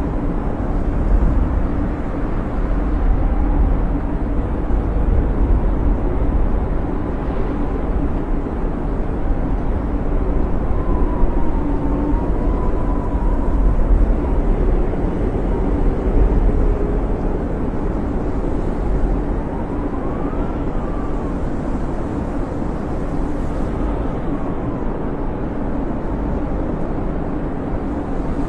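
Snowstorm wind: a steady deep roar with a thin whistling howl that rises and falls in pitch a few times.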